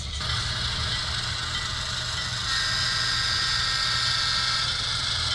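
HO scale model locomotive running slowly through a switching move, its engine sound and drive running steadily as it shoves a cut of cars. A steady high whine joins about two and a half seconds in.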